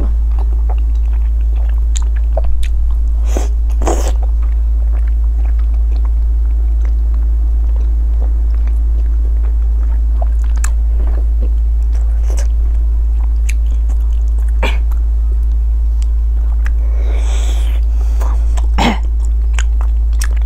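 Close-up eating sounds of a person chewing soft, fatty braised pork belly: scattered wet smacks and clicks of the lips and mouth. A steady low hum runs underneath.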